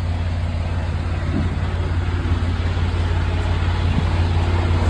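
Semi-truck diesel engine idling steadily with a low, even rumble.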